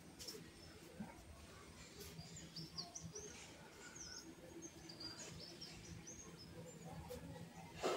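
Faint outdoor ambience with a small bird chirping in short, high, curving notes, a run of them from about two seconds in lasting a few seconds. A brief knock comes right at the end.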